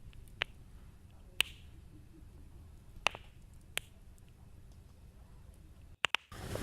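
Campfire crackling: a few sharp pops of burning wood over a faint, low rush of flame, with a brief dropout near the end.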